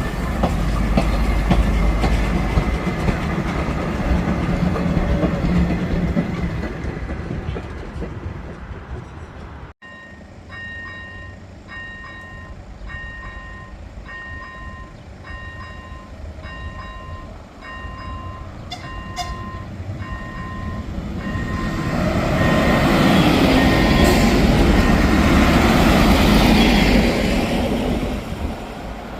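A train running loudly with a deep rumble. After a cut, a level-crossing warning signal rings about once a second, and a train then passes loudly over the crossing near the end while the signal keeps ringing.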